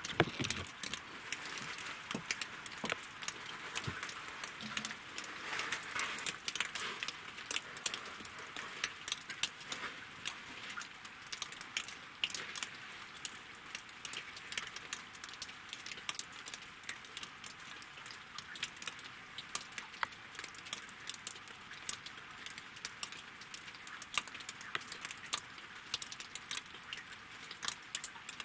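Rain falling on a lake and on logs: a dense, irregular patter of sharp drop ticks over a steady hiss.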